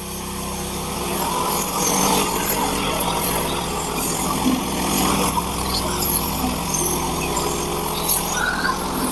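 Portable bandsaw sawmill running under load as its blade saws a thin board: a steady engine hum with saw noise over it, building over the first second or two and then holding steady.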